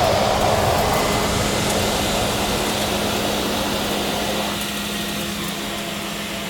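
Seaplane's engine and propeller running with a steady hum and rushing noise that slowly eases off, as the plane slows after landing on the water.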